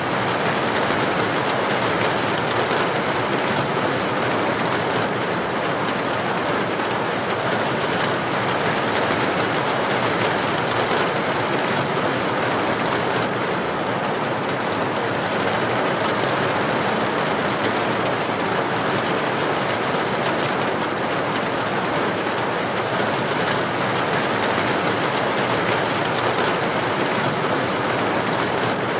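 Heavy rain pouring onto a street: a steady, dense hiss with no breaks.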